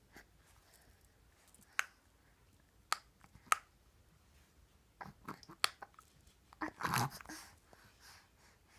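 A baby's newly cut teeth biting on a teething toy: sharp, scattered crunchy clicks, then a quicker run of them and a louder, longer rasp about two-thirds of the way through.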